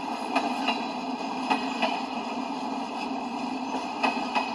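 Boxcars of a freight train rolling past: a steady rumble of steel wheels on rail, with three pairs of sharp clicks as the wheelsets of each truck cross a rail joint.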